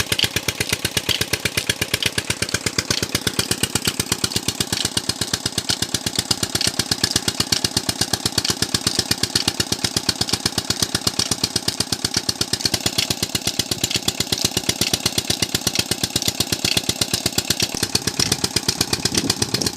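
Diesel engine driving a tubewell pump through a belt, running steadily with a fast, even beat of firing pulses.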